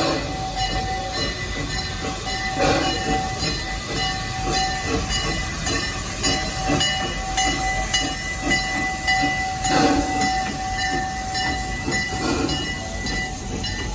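Crown Metal Products 4-4-0 propane-fired steam locomotive running, with a hiss and a regular beat, and a few louder bursts along the way.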